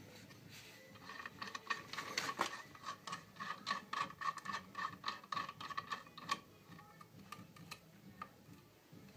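A run of quick metallic ticks and clinks with a ringing tone, starting about a second in and thinning out after about six seconds.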